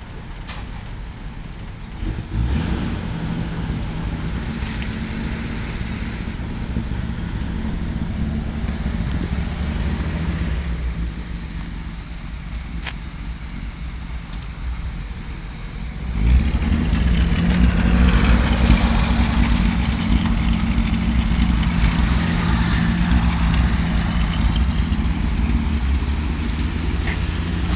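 1948 Plymouth Special Deluxe's flathead straight-six running with a steady low rumble on a cold start. It gets clearly louder and fuller about 16 seconds in.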